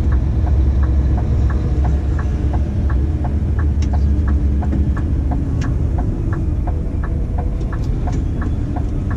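Dump truck's diesel engine running with a steady low drone. A regular ticking repeats about twice a second over it.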